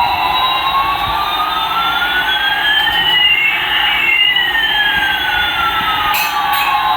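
Electronic siren-like sound effect from a toy: two tones glide slowly in opposite directions, one rising and one falling, crossing near the middle, over a steady electronic hiss.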